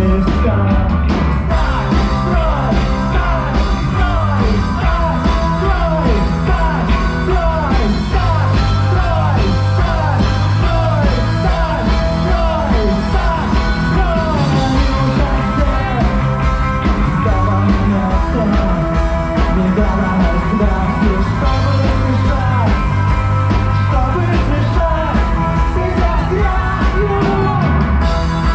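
Rock band playing live: the singer's last word of a line right at the start, then a loud instrumental passage of melodic lines over a steady bass.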